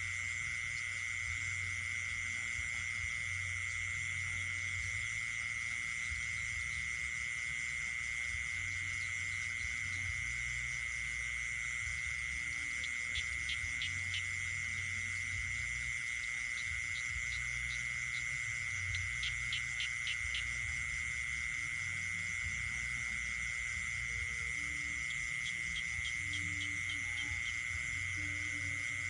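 Night chorus of insects and frogs: a continuous high insect trill, with three short bursts of rapid pulsed calls about a third of the way in, two-thirds of the way in, and near the end.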